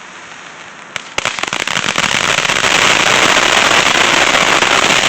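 A sparkler catching about a second in, then hissing and crackling steadily and loudly.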